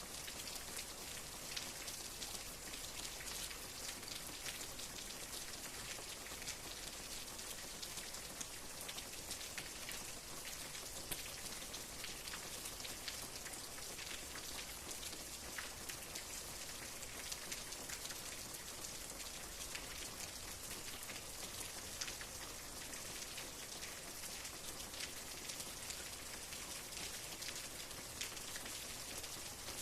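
Steady rain falling, a continuous hiss with many separate drops pattering on a surface.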